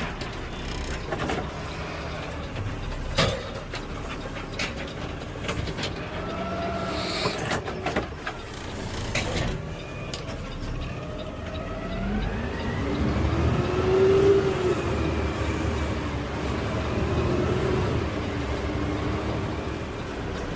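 Automated side-loader garbage truck running, with a few sharp knocks in the first half, then a whine that rises and falls in pitch.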